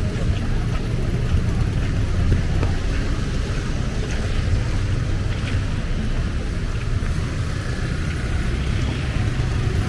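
Street ambience: a steady low rumble with a fainter hiss and a few scattered small ticks.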